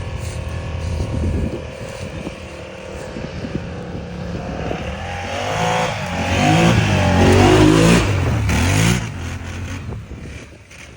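ATV (quad bike) engine running, its pitch rising and falling as the throttle is worked, loudest from about six to nine seconds in, then easing off.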